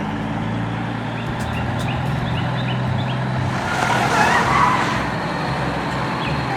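Vehicle engine running steadily with a low hum, with a louder skidding swell and squeal about four seconds in.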